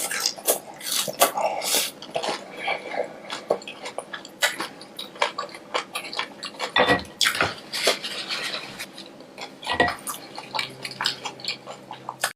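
Close-miked ASMR eating sounds: irregular sharp clicks of biting and chewing, with utensils clinking against dishes and a couple of heavier thuds.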